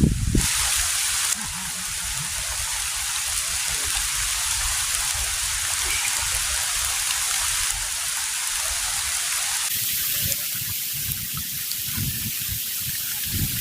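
Heavy rain falling steadily, with wind buffeting the microphone as an uneven low rumble that grows stronger after about ten seconds.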